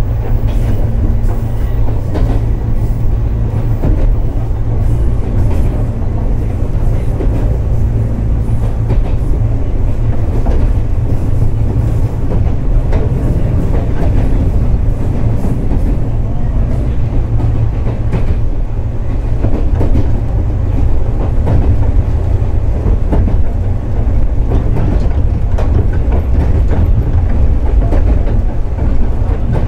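Inside a JR 415 series electric multiple unit under way: a steady low rumble of wheels and running gear with scattered rail-joint clacks. A steady hum is heard at the start and comes back near the end.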